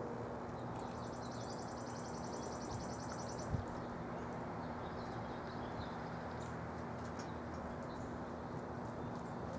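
A songbird sings a fast trill of evenly repeated high notes lasting about two and a half seconds, followed by fainter, scattered high notes. Underneath is a steady background hum and rumble, with a single soft knock about three and a half seconds in.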